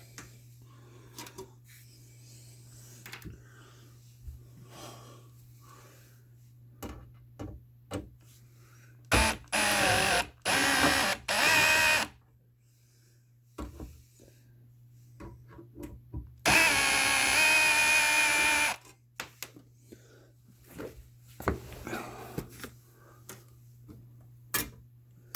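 A cordless drill/driver runs in two bursts, about three seconds with short stops some nine seconds in and about two seconds later on, its motor pitch shifting as it backs out screws on the air conditioner's control box. Small clicks and knocks of handling fall between the bursts, over a steady low hum.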